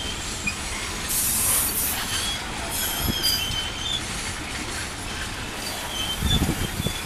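Freight train of covered hopper wagons rolling past. Its steel wheels squeal in short high-pitched bursts over a steady rumble. There is a brief hiss about a second in and a low thump near the end.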